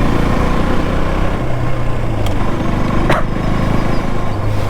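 Motorcycle engine running steadily while riding, under a constant rush of wind noise. A brief click about three seconds in.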